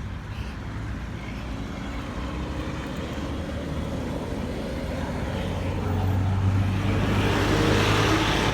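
Road traffic: engines and tyres running on the road, with one vehicle growing louder over the last couple of seconds as it comes close.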